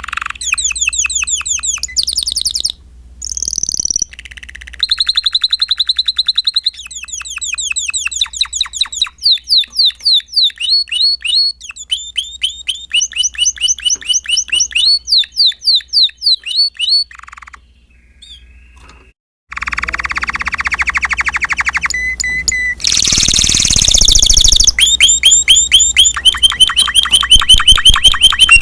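Spanish Timbrado canary singing: fast trills of repeated chirping notes that switch to a new pattern every second or two, with noisier rolling trills later on. The song breaks off briefly about two-thirds of the way through.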